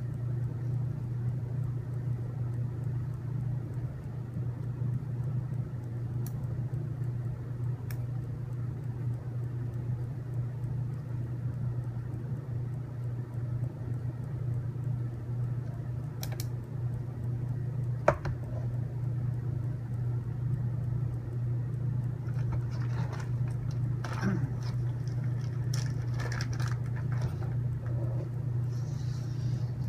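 A steady low hum throughout, with a few isolated sharp clicks and, in the last several seconds, light clicking and rattling of small robot-kit parts being handled during assembly.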